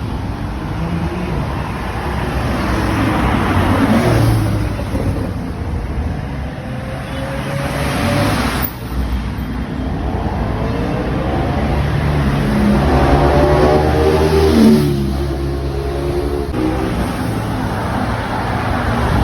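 Porsche sports car engines accelerating, with the pitch rising several times as they rev up and pull away. The sound breaks off abruptly in a few places.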